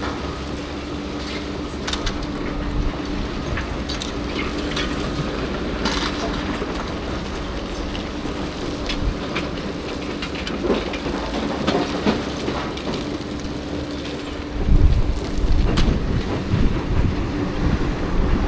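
Heavy earth-moving machinery working in a quarry: a diesel engine running with a steady hum, scattered metallic clanks and clicks, and a deeper, louder rumble setting in near the end.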